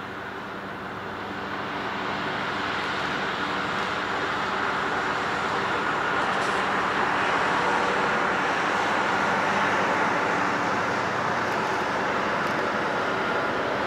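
Diesel locomotive hauling a long ore train past at close range: its engine drone builds over the first few seconds as it draws level. The ore wagons then roll past with a steady rumble and wheel noise.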